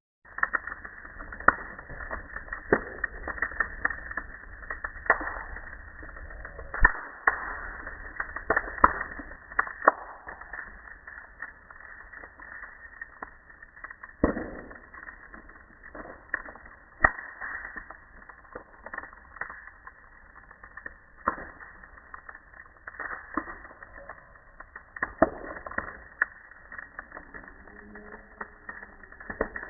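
Wood bonfire crackling, with irregular sharp pops from the burning wood.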